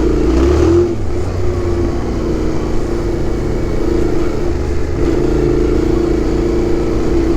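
Yamaha Ténéré 700's parallel-twin engine running under way with its stock exhaust, a little louder in the first second and then holding a steady note.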